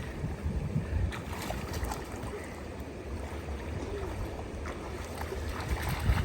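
River water flowing and lapping, with a steady low rumble underneath.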